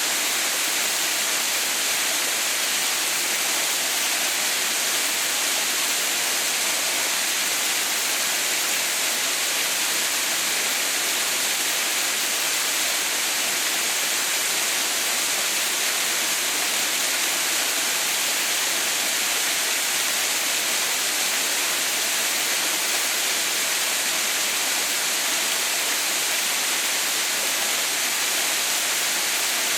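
Waterfall, iced over in winter, with water still falling: a steady, unbroken rush of water, hissy and bright with little low rumble.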